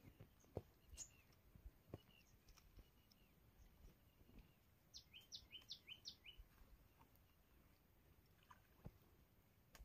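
Near silence with faint bird calls: a quick run of four downward-sweeping chirps about five seconds in, and a few scattered single chirps.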